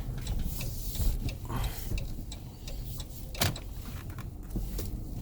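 Turn-signal indicator ticking inside a Dodge Grand Caravan's cabin over a low engine and road rumble as the van turns in, with one louder click about three and a half seconds in.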